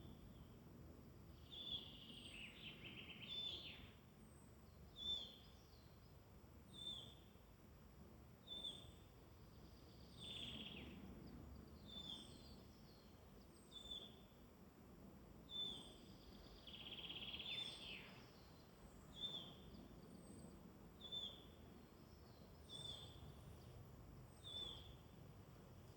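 Woodland birds singing faintly. One bird repeats a short, high call about every second and a half to two seconds, and a second bird breaks in four times with longer, falling trilled phrases.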